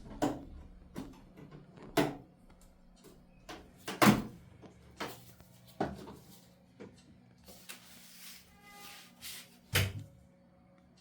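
Irregular clicks and knocks of a hand tool working on a washing machine's door-seal clamp, the loudest knock about four seconds in, with a short squeaky tone near nine seconds.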